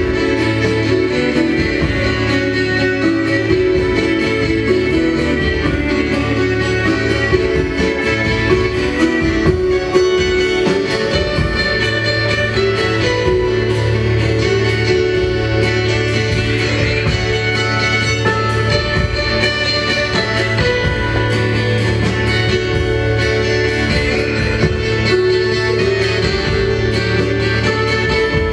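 Live band music led by guitar, playing continuously at a steady loudness.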